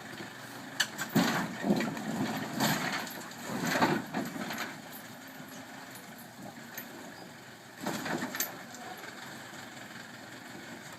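Tractor engine running steadily, with irregular loud knocks and rattles as the ride jolts over a rough track, most of them in the first half and again a little after the middle.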